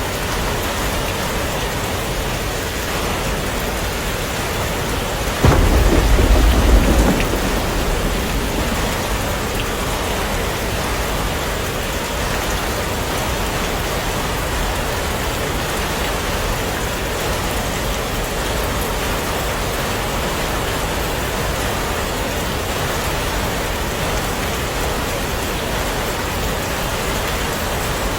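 Heavy rain falling steadily, with a sudden clap of thunder about five seconds in that rumbles low for a second or two and then fades.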